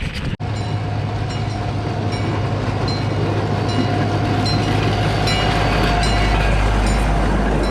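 Hermann Park's miniature train running on its track: a steady rumble with a held tone and light, irregular clicks from the wheels on the rails, growing slightly louder.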